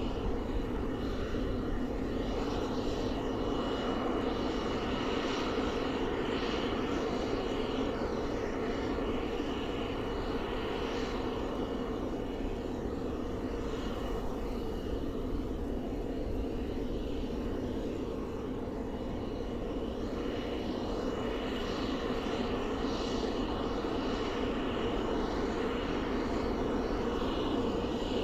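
Helicopter turbine engine and rotor running steadily, with a thin high whine on top that fades in and out.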